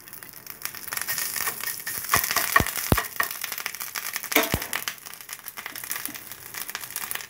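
Ginger paste and whole spices frying in hot oil in a nonstick pan: a dense crackling sizzle, with a few sharp clicks around the middle.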